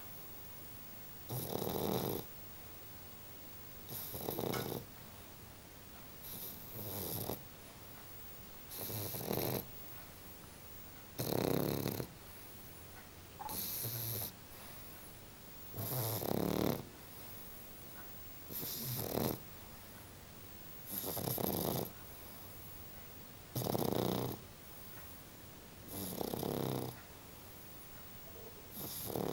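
A bully-breed puppy snoring while asleep, one snore on each breath, coming regularly about every two and a half seconds.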